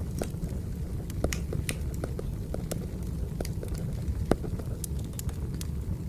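Wood fire crackling: a steady low rumble of burning logs with irregular sharp pops and snaps, the loudest pop a little past four seconds in.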